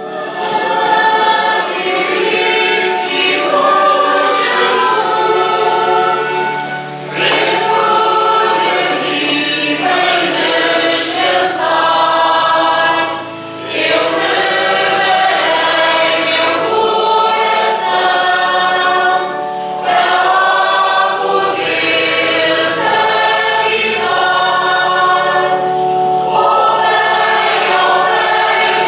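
A church choir singing a hymn in phrases, with short breaths between them, over held low accompanying notes.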